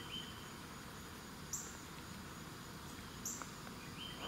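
Birds calling: a short high chirp about every two seconds, with a brief lower whistle near the end, over a faint steady outdoor background.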